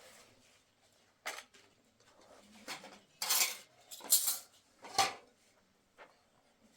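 Dishes and metal utensils clattering: a run of short clinks and knocks, loudest a little past three and four seconds and again at five seconds.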